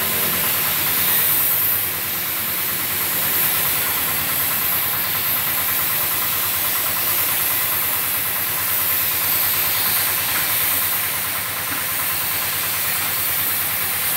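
Paint spray gun hissing steadily as it lays down a second coat of clear, with an air compressor's motor running underneath.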